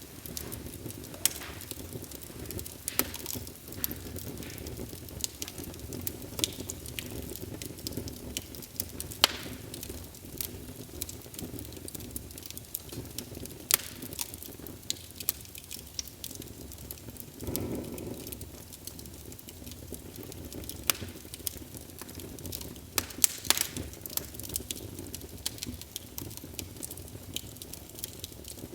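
Wood fire burning in a fireplace, with a steady low rumble and irregular sharp pops and crackles throughout.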